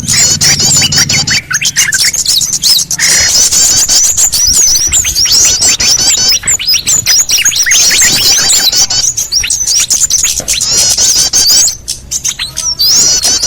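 Bird-lure recording of small songbirds: a dense chorus of rapid, overlapping high-pitched chirps and twitters from many birds, loud and continuous, easing briefly near the end. It is a lure call played to draw small birds in.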